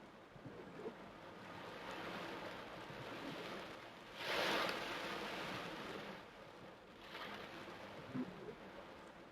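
Torrential rain pouring steadily, swelling to a louder rush about four seconds in and easing off after a second or so.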